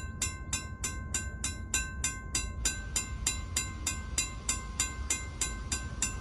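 Railroad grade-crossing signal bell ringing steadily, about three strikes a second, over a low rumble.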